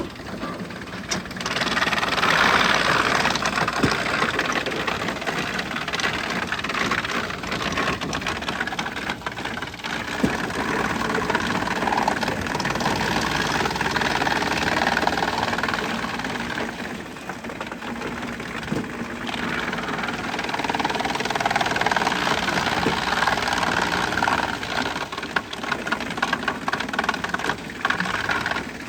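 Wood chipper running under load, its engine noise mixed with dense crackling as wood is fed through and chipped. The sound swells about a second and a half in, eases off briefly past the middle, then builds again.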